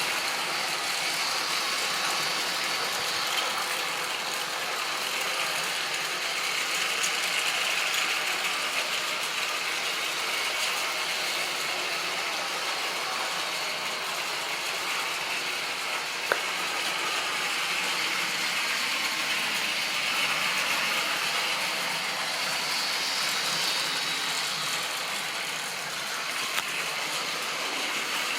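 Model railway train running on its track: a steady mechanical rattle of the motor, gears and wheels. It swells twice as the train comes closer, and there is a single sharp click about sixteen seconds in.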